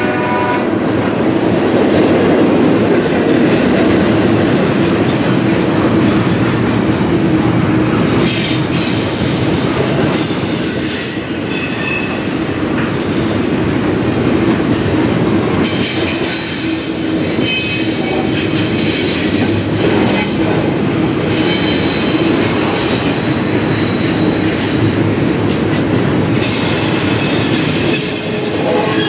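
Double-stack intermodal container train's well cars rolling past: a steady rumble of wheels on rail, with high-pitched wheel squeals coming and going throughout.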